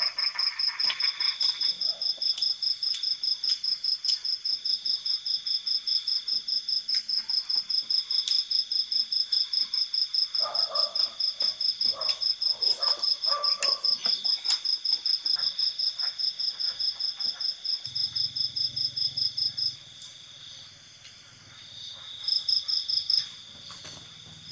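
Insect chirping in a fast, even pulsed rhythm over a steady high trill; the chirping stops about twenty seconds in and returns briefly near the end.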